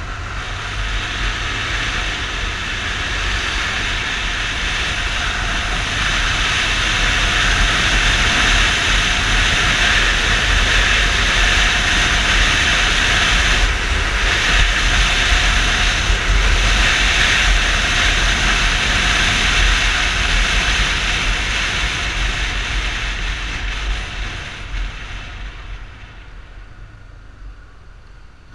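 Wind rushing over the microphone of a motorcycle moving at speed, a loud steady rush with low buffeting underneath. It builds over the first several seconds and fades as the bike slows near the end.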